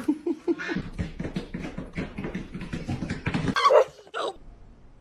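A dog vocalizing: a quick run of short, low sounds, then two louder calls about three and a half and four seconds in.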